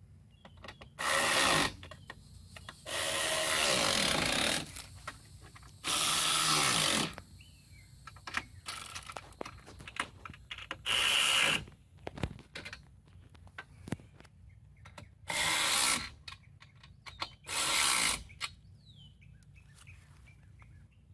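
Power drill driving screws in six short runs of about a second each, the motor winding down after each one, while fastening the running boards to their brackets.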